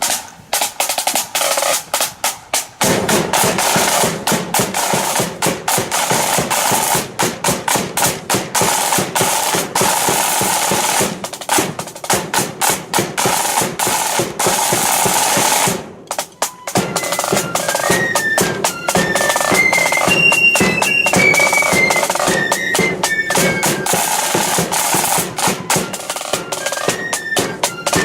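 Marching flute band: snare drums rolling and beating with the bass drum. After a brief break about two-thirds of the way in, the flutes strike up a melody over the drums.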